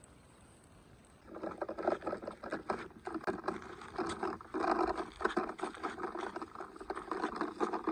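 Irregular splashing and scraping of toy vehicles working through shallow water and mud, starting about a second in.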